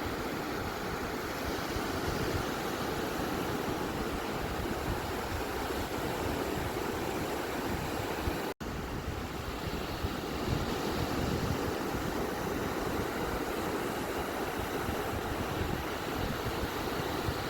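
Steady roar of surf from beach waves, an even rushing noise without distinct breakers. Just past halfway the sound cuts out for a split second, then resumes unchanged.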